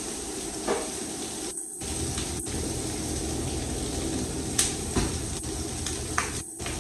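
Shrimp and vegetables sizzling steadily in very hot oil in a wok, with a few light knocks; the sound drops out briefly twice.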